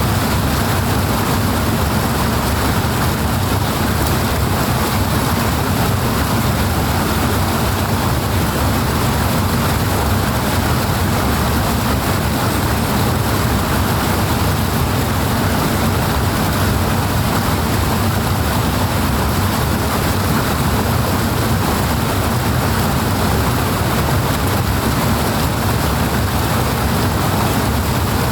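Powerful water rushing steadily, a constant deep rumble with hiss above it and no breaks.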